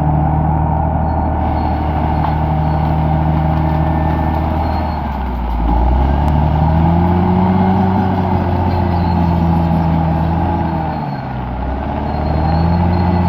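Bulldozer's diesel engine running steadily, its pitch sagging and picking back up twice, about five seconds in and again about eleven seconds in.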